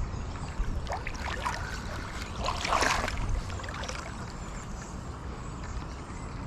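Water splashing and lapping around a kayak, with a louder splash about two and a half seconds in, over a steady low rumble.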